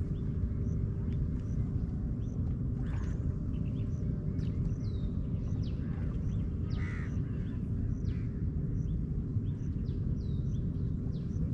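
Outdoor dawn ambience: a steady low rumble with small birds chirping throughout and crows cawing, about three seconds in and again near seven seconds.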